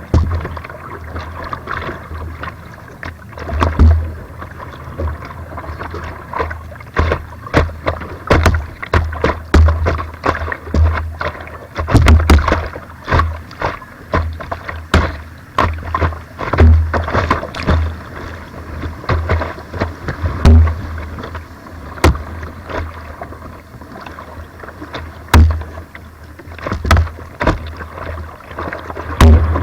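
Kayak paddling through weir white water: steady rushing water with frequent irregular sharp paddle splashes and knocks, and heavy low thumps.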